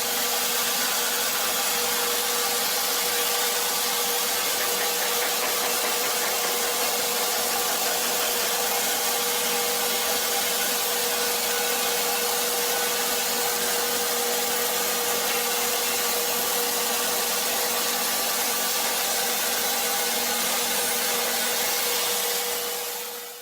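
Wood-cutting machine running steadily, a constant mechanical whine over a dense hiss of cutting.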